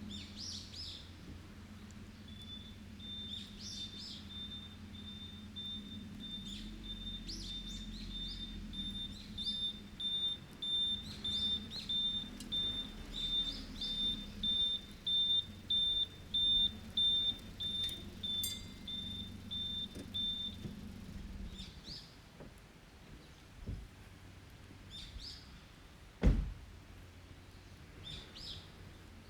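Forest birds chirping here and there over a distant engine's steady low hum, with a long even run of high beeps, about two a second, typical of a vehicle's reversing alarm. The beeps and the hum both stop about 21 seconds in. One sharp pop from the burning campfire wood comes near the end.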